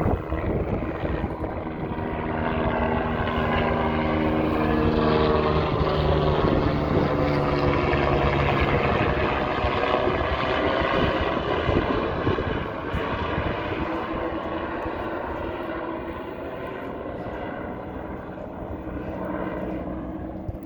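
Propeller aircraft flying over, with a steady engine drone that swells to its loudest about a third of the way through and then slowly fades.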